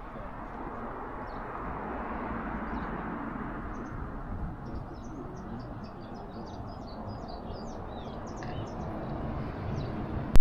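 Small birds chirping: many short, high chirps in quick succession, densest in the second half, over a steady rushing background noise.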